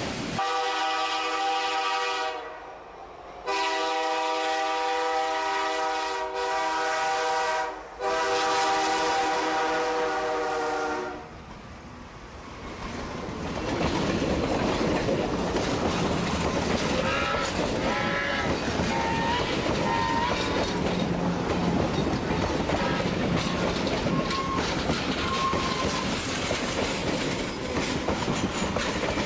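Diesel locomotive air horn sounding three long blasts, the middle one the longest. After a short lull, a train rolls by with a steady rumble and clickety-clack of wheels over rail joints, with a few faint high squeals.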